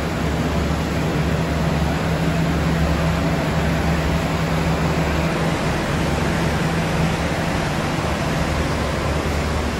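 A stationary passenger train idling, giving a steady low mechanical hum under a constant rushing noise from its running engines and air-conditioning.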